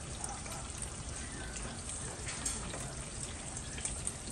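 Vegetables and beef sizzling in a stainless steel wok as they are tossed and stirred with a spatula, a steady hiss with light scrapes and taps of the utensil.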